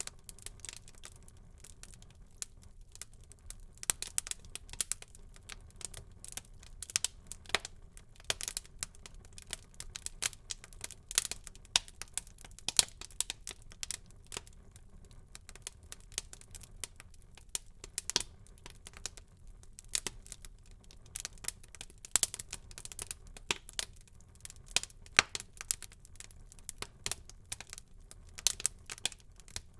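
Wood fire crackling in a fireplace: irregular sharp pops and snaps, several a second, over a low steady rumble of flames.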